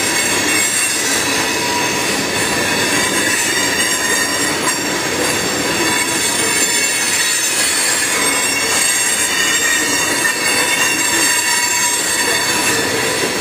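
Freight train of hopper cars rolling steadily through a grade crossing: a constant rumble and rattle of wagons and wheels, with steady high wheel squeal over it.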